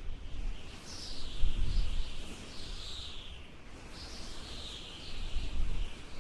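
Songbirds singing in a string of chirping, falling phrases over a low, uneven rumble.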